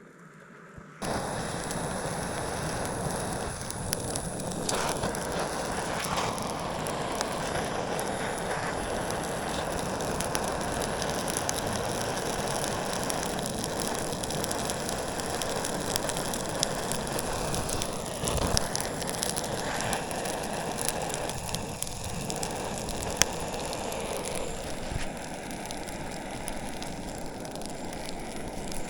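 Portable gas burner hissing steadily as it lights a campfire, starting suddenly about a second in, with scattered small crackles from the catching wood.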